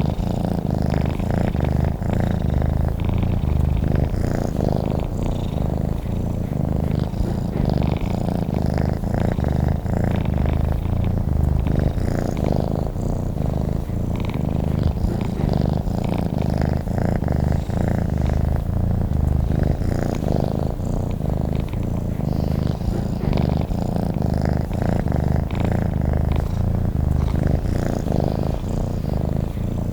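Domestic cat purring steadily and continuously, a low purr with a fast, even pulse.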